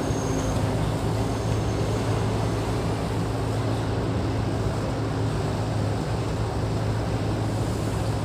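Diesel engine of heavy earthmoving machinery running steadily at a constant speed, an even low drone with no revving.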